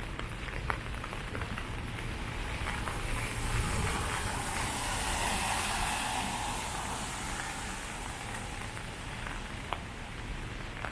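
Steady rain falling, with scattered drips ticking; the hiss swells louder for a few seconds in the middle.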